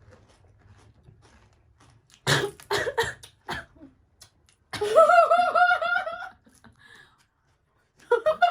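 A woman coughing several times in quick succession, choking on chili-hot panipuri, then breaking into a run of high-pitched laughter of about six quick pulses, with one more short cough-like burst near the end.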